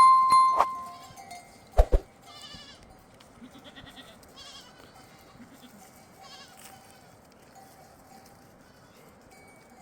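A livestock bell clanks once at the start and rings for about a second, followed by two sharp knocks. Then goats bleat faintly a few times, each call quavering.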